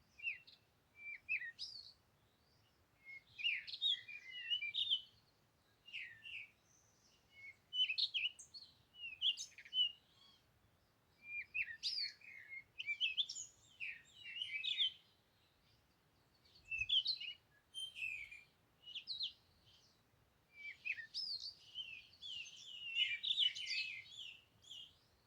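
Small birds chirping and twittering in bursts of quick, high notes separated by short pauses, busiest near the end.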